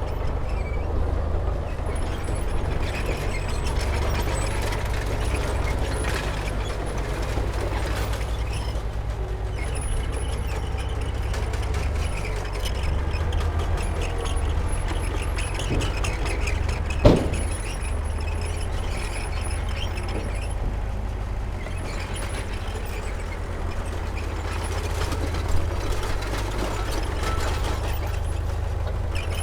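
Heavy diesel earthmoving machinery, a bulldozer and dump truck, running steadily with a deep engine rumble. A single sharp knock comes about seventeen seconds in, and a smaller one about eight seconds later.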